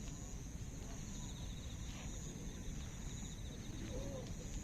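Insects chirping: a high, thin trill that comes in repeated spells of about a second, with a faster pulsing trill beneath it, over a low, steady background noise.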